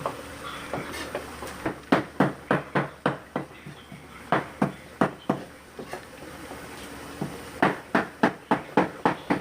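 Knife chopping on a wooden cutting board, sharp chops about three or four a second in three runs, with the most strikes in the last run.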